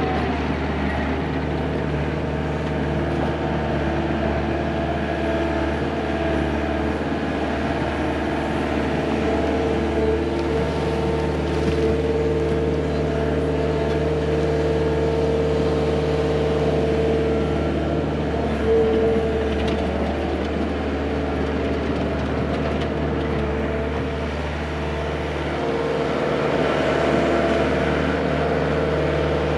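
Excavator's diesel engine running steadily, with a higher-pitched whine over it that grows louder through the middle stretch.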